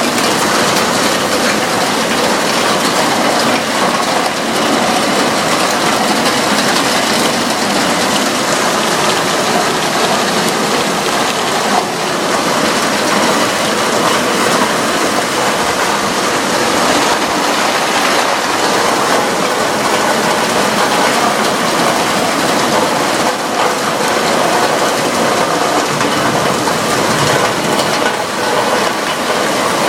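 Heavy thunderstorm rain pouring down in a steady, dense crackle of drops hitting hard surfaces.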